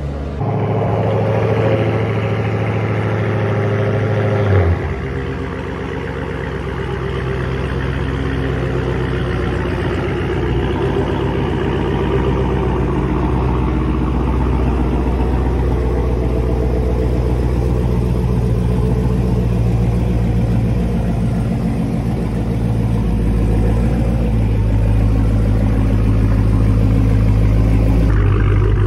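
Dodge Charger SRT Hellcat's supercharged V8 idling steadily, with a short rise in level about four and a half seconds in.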